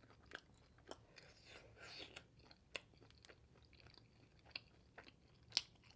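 Faint close-miked chewing: scattered soft mouth clicks and smacks, with the sharpest click about half a second before the end.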